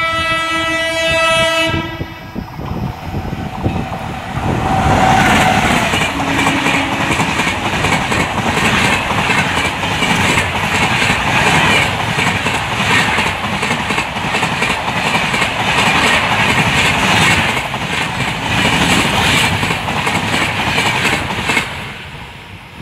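A WAP7 electric locomotive's horn sounds and cuts off about two seconds in. Then an intercity express passes close by: the locomotive rushes past and a long rake of coaches follows with a steady wheel clatter over the rail joints, fading away near the end.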